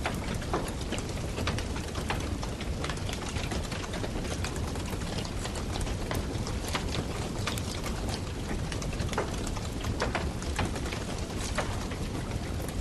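Wood campfire burning: a steady low rush with frequent, irregular sharp crackles and pops from the burning wood.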